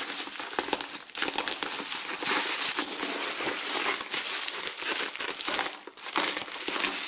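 Plastic packaging and wrapping crinkling and rustling as a parcel is handled and pulled open, with crackly bursts throughout and a short lull near six seconds.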